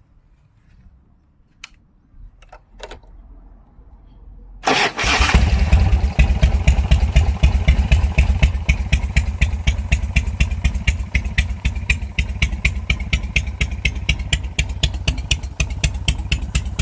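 A few faint clicks, then about four and a half seconds in the Harley-Davidson Low Rider's V-twin starts with a sudden loud burst. It settles into a loud, evenly pulsing idle through Bub Bad Dog exhausts.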